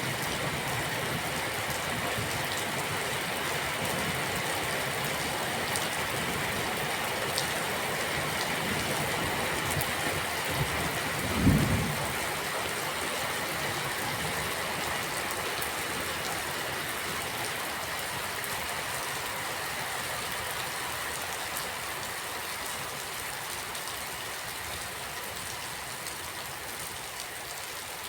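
Steady rain falling, a dense even hiss, with one brief low thump about halfway through.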